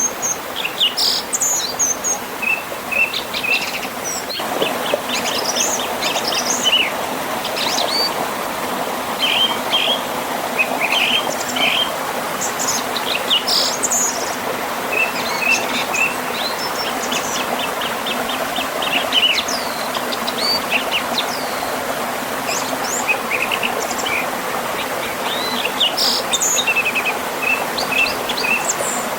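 Many birds chirping and trilling over the steady rush of a river flowing past a small waterfall.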